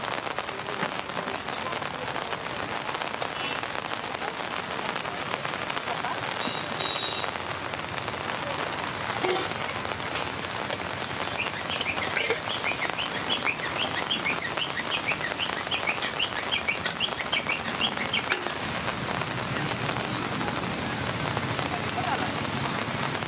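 Steady hiss of rain falling on surfaces. Partway through come several seconds of quick, high chirps.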